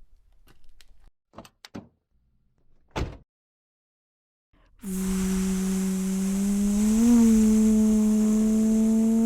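A few faint clicks and one sharp thump, then silence, then a steady pitched electric hum with a hiss over it starts about five seconds in, its pitch rising slightly in a short wobble twice.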